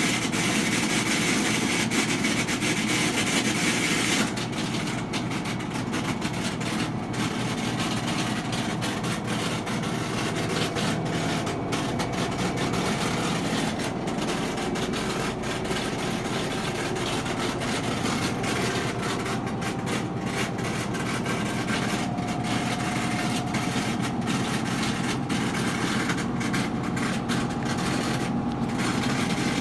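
Whirlpool front-load washing machine running with a steady mechanical noise and hum, the noise it makes during its spin and drain cycle. It drops slightly in level about four seconds in, then holds steady.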